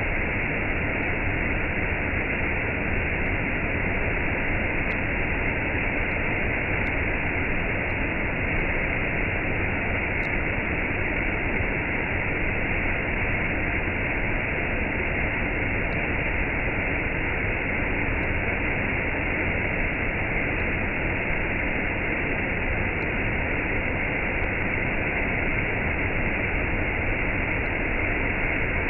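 Waterfall with a cascade: a steady, unbroken rush of falling water.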